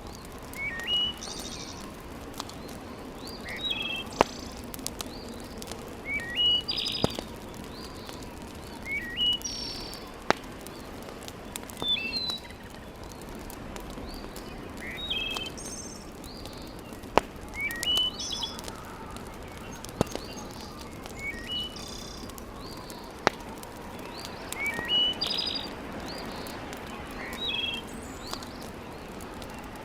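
A bird calling over and over, short rising chirps every two to three seconds, over a wood fire crackling with a few sharp pops.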